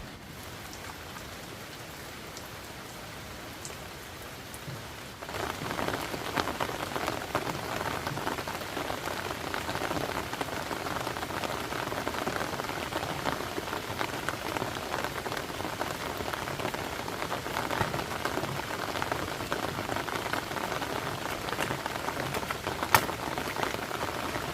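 Heavy rain falling, a dense steady patter of drops that turns suddenly louder about five seconds in. One sharp tap stands out near the end.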